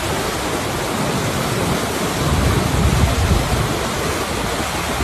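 Steady rush of breaking water, with wind buffeting the microphone in a low rumble about halfway through.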